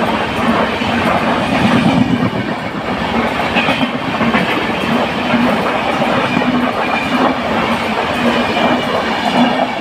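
Ernakulam–Tatanagar Express passenger train passing along the platform, its coaches rolling by with a steady rumble and the rhythmic clatter of wheels over the rail joints.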